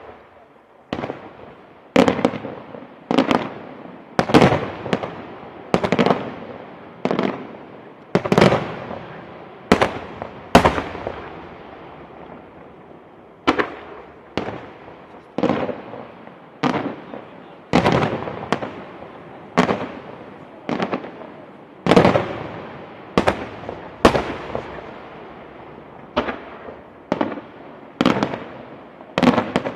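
Fireworks display: a steady run of sharp bangs, about one or two a second, each trailing off in echo, with a short lull about eleven seconds in.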